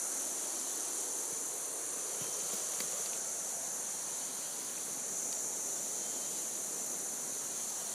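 Steady, high-pitched chorus of rainforest insects, with a faint tick or two in the middle.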